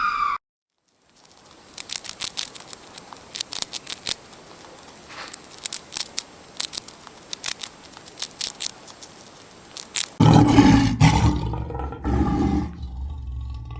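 A big cat's deep, loud call comes about ten seconds in, in two surges, then trails off. Before it runs a long stretch of scattered sharp crackling clicks.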